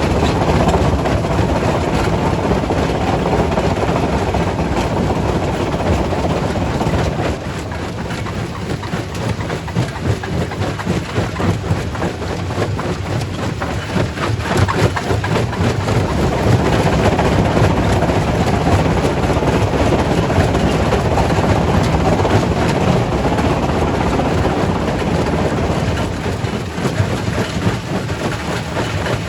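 Quarry primary rock crusher running under load: a continuous heavy rumble with dense cracking and grinding of stone. It drops a little about seven seconds in and grows louder again around sixteen seconds.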